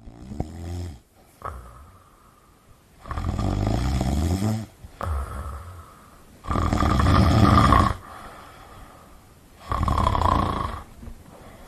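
A person snoring loudly: four long, rattling snores a few seconds apart, with shorter, softer breaths between them.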